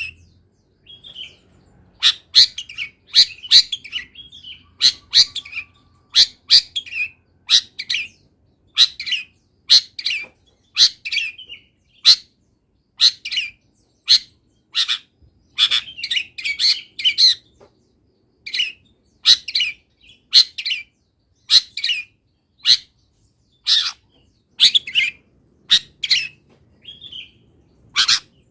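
Long-tailed shrike (cendet) singing energetically: a run of short, sharp chirps and harsh notes, about one or two a second, in a song filled with imitations of wild birds.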